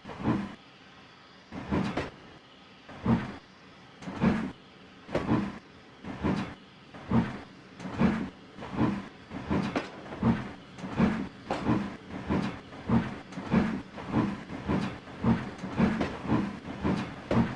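Exhaust beats of LNER A3 Flying Scotsman, a three-cylinder steam locomotive, pulling away. The chuffs come about once a second at first and quicken steadily to about two a second as the train gathers speed.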